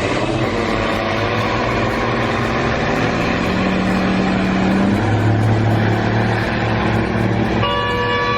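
Heavy vehicle engine running steadily, its drone dropping to a lower pitch about halfway through. A vehicle horn sounds near the end.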